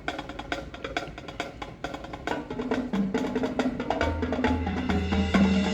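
Marching band show opening: percussion ticks out a quick, steady pulse. Sustained wind chords build over it from about two seconds in, and low brass comes in heavily about four seconds in, so the music grows louder.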